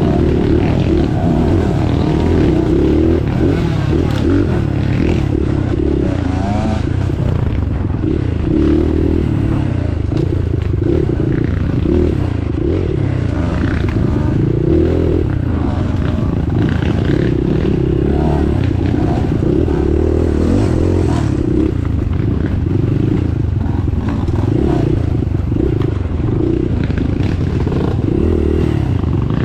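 Motorcycle engine running continuously while being ridden, with scraping and clattering noise over a steady low rumble.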